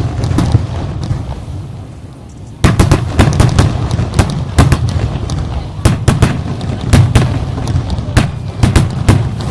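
Aerial fireworks bursting: a few sharp bangs, a lull of about two seconds while the rumble dies away, then from about two and a half seconds in a dense barrage of bangs one after another.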